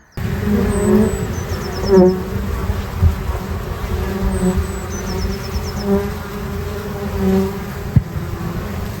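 Honeybees buzzing around the hive: a steady drone of many bees, with single bees swelling louder and bending in pitch as they fly close past.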